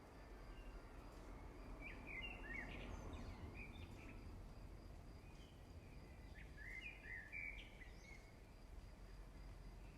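Faint, scattered bird chirps, short quick calls coming in small clusters, over a low steady background rumble.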